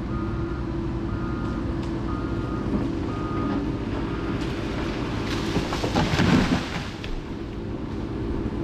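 Heavy diesel machine engine running steadily while a backup alarm beeps several times over the first four seconds, then the engine swells louder briefly about six seconds in.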